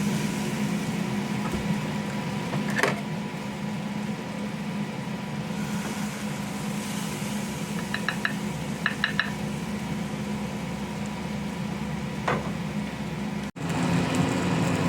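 Ribeye steaks sizzling on the cooking surface under a steady mechanical hum. Two short runs of light metal clicks from tongs or a utensil come about eight and nine seconds in, and single soft knocks come near three and twelve seconds.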